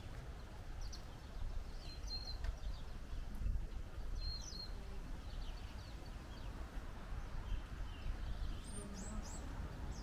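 Japanese white-eyes calling: short, thin, high chirps scattered through, with a few quick falling notes near the end, over a steady low rumble.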